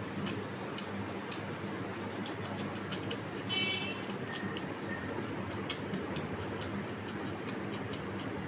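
Close-miked eating: chewing and wet mouth clicks, with fingers mixing rice and mutton curry on a metal plate. A steady low hum sits under the clicks.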